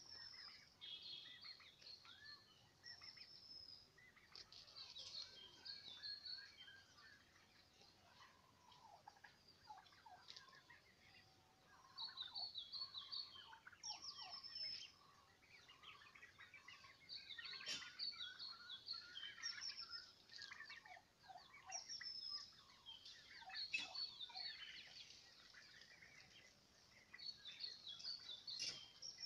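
A flock of turkeys calling: many short, high-pitched calls and chirps overlapping one another, faint overall, with louder stretches in the second half.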